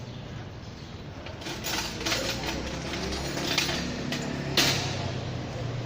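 Metal hand tools and engine parts clinking and knocking against each other during engine repair work: a run of sharp clinks, the loudest about four and a half seconds in, over a low steady hum.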